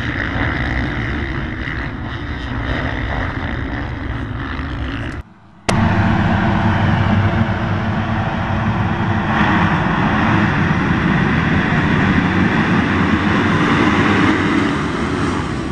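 Several motocross bikes' engines running together in a dense, steady din. The sound drops out for half a second about five seconds in, then comes back louder.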